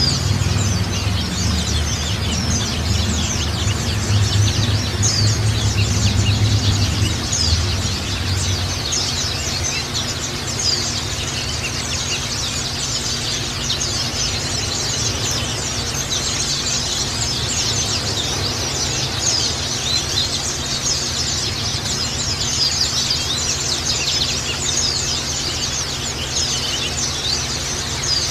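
White-eyes (pleci) chirping and twittering in a dense, rapid high-pitched stream, over a low steady hum that is heavier for the first eight seconds or so.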